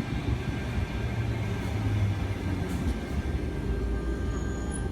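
Sydney Trains Tangara electric train running into the platform: a steady low rumble with a few faint, steady, higher tones above it.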